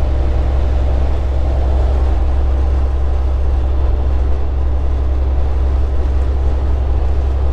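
Semi-truck cab interior at highway speed: the diesel engine's steady low drone with road and tyre noise, unchanging throughout.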